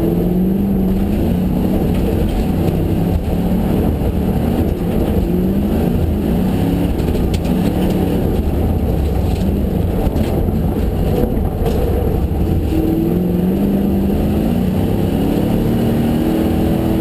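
Ford Mustang GTS rally car's V8 engine heard from inside the cabin at racing speed on a snow stage, revving up and dropping back several times as the driver shifts gears, over a steady low rumble of road and tyre noise.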